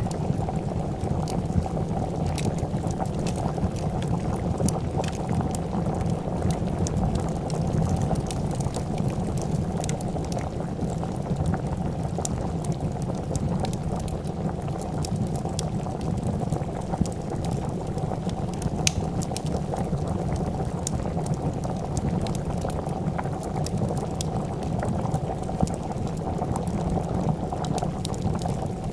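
A pot of soup boiling, with steady, dense bubbling, and sharp little crackles of a wood fire scattered throughout.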